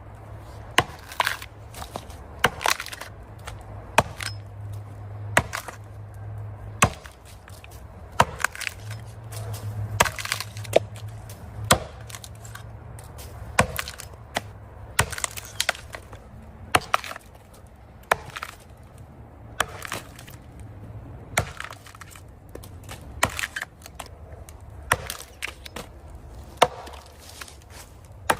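Axe chopping into a large tree trunk by hand: a sharp, woody strike every second or so, some strokes landing in quick pairs.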